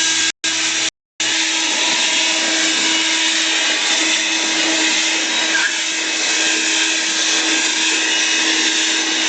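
Leaf blower running steadily: a loud rushing blast with a constant hum tone under it. The sound cuts out briefly twice in the first second, then runs unbroken.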